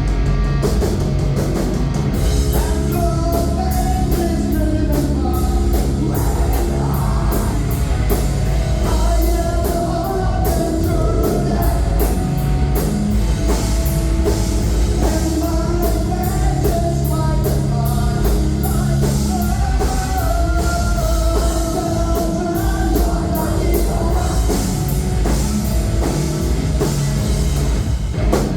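Live heavy rock band playing loud and without a break: distorted guitars and bass over a drum kit with rapidly struck cymbals, and a singer.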